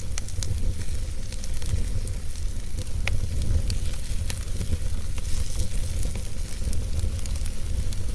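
Wood fire in a fireplace crackling, with irregular sharp pops and a steady hiss over a constant low rumble.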